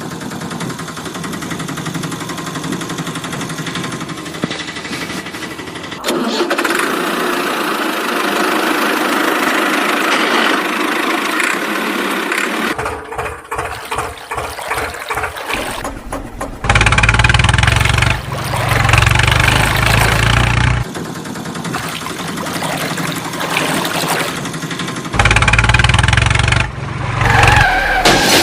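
Tractor and backhoe engine sounds cut together in blocks that change abruptly, with a stretch of rapid regular pulsing in the middle and heavy low-pitched rumbling passages later on.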